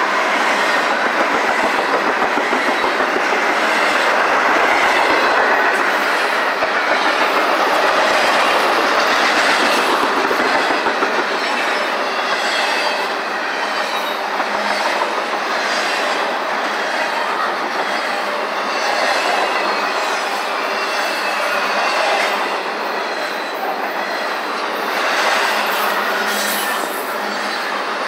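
Double-stack intermodal well cars rolling past on steel rails: a steady rumble and clatter of wheels on track, a little louder in the first half, with a run of sharper wheel clicks near the end.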